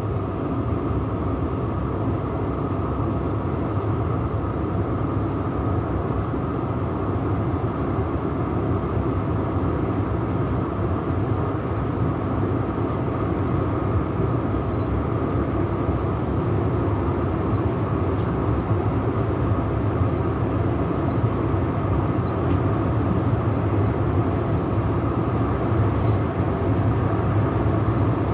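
Steady running noise of a Zürich S-Bahn DPZ double-deck push-pull train, heard in the driver's cab of its control car as it travels along the track.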